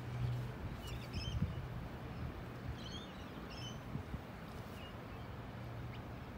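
Small birds chirping in short, quick calls, in two brief clusters about a second in and about three seconds in, over a steady low hum and outdoor background noise.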